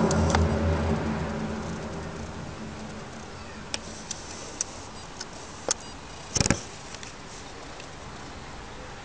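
A low, steady droning hum, the 'strange sound' of the recording, fading out over the first second or two. After it comes a faint even hiss broken by scattered sharp ticks and clicks, the loudest a double click about six and a half seconds in.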